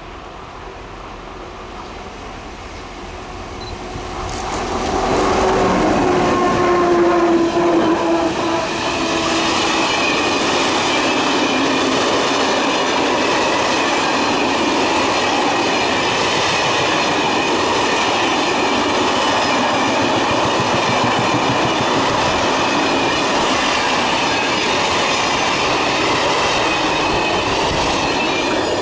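A locomotive-hauled passenger train of Corail coaches passing close by. As the locomotive goes past, about five seconds in, there is a loud tone that falls slightly in pitch. Then comes steady wheel-on-rail noise from the coaches, which lasts to the end.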